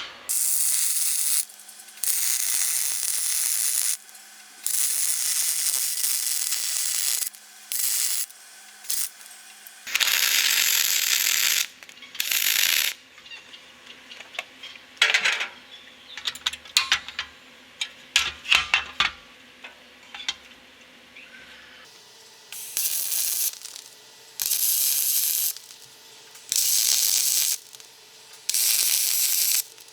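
Repeated scraping strokes of hand work on a tool, each a second or two long with short pauses between. A stretch of scattered clicks and knocks of tool handling comes midway.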